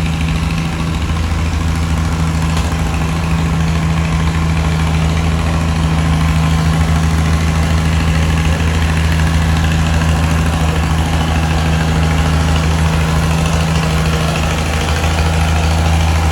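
Antique tractor engine running steadily with a low, even drone.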